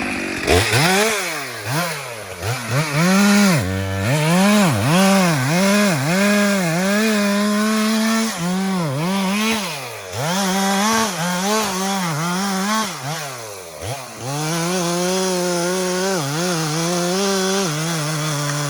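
Two-stroke chainsaw engine revving up and down over and over, with a few longer stretches held at high revs and a couple of deep drops toward idle.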